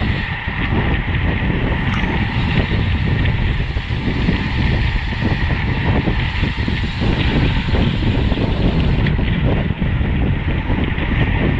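Wind buffeting the microphone of a camera riding on a road bike at race speed: a steady rushing noise heaviest in the low end, with a thin steady whine above it.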